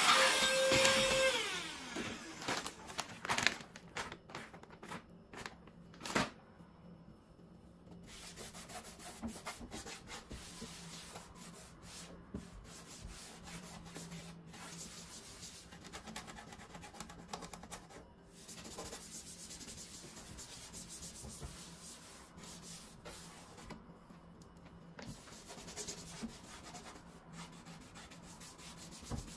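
Music ending in the first second or two, then quiet handling of food packets and storage containers: rubbing and rustling with scattered light knocks and clicks.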